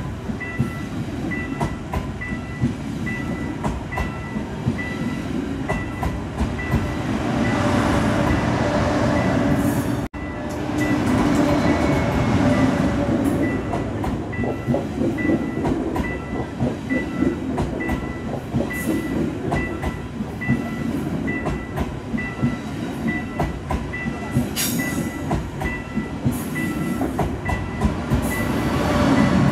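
KTX-Sancheon high-speed train running past at close range: a steady rumble of steel wheels on rail, with clicks as the wheels cross rail joints. A level-crossing warning bell dings about twice a second, and the sound cuts out for an instant about ten seconds in.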